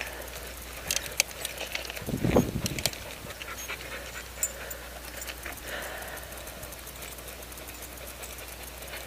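Dog panting, with scattered clicks and a short low thump about two seconds in.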